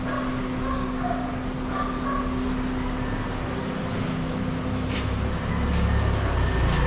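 Low engine rumble of a motor vehicle, growing louder in the second half, over a steady hum.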